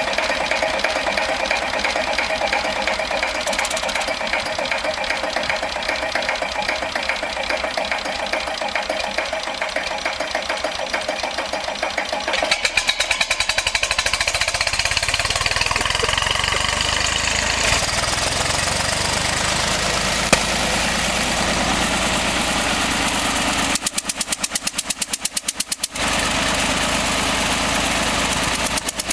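Lister JP3 three-cylinder diesel engine running. About twelve seconds in it becomes deeper and heavier, and near the end it briefly breaks into separate, evenly spaced beats.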